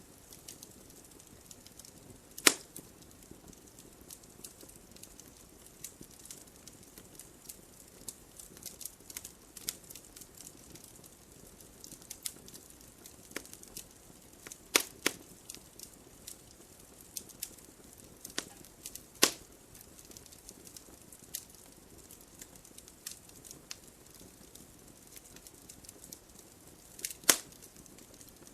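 Wood fire in a fireplace crackling: a steady scatter of small sharp snaps over a faint hiss, with a few loud pops, one a couple of seconds in, a pair around the middle, another shortly after, and one near the end.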